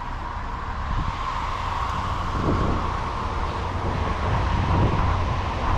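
Steady hiss of rain and wind buffeting the microphone, with a low rumble underneath.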